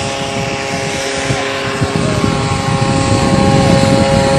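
Homemade ultralight aircraft powered by a Kawasaki motorcycle engine, running steadily with its propeller turning and growing slightly louder.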